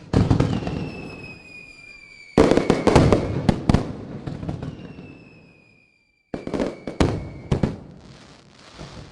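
Fireworks exploding in three clusters of sharp bangs, each followed by crackling: one right at the start, a bigger one about two seconds in that crackles and fades away, and a last cluster near the end. Thin whistling tones slowly fall in pitch through the bursts.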